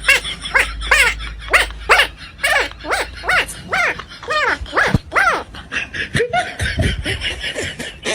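An animal's short, pitched yelping calls, each rising and falling, repeated about twice a second and growing quieter after about five seconds.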